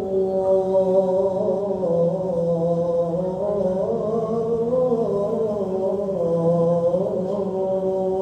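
A muezzin's male voice singing the adhan, the Islamic call to prayer. He draws out the close of 'ashhadu an la ilaha illallah' in one long, ornamented phrase, the pitch winding up and down.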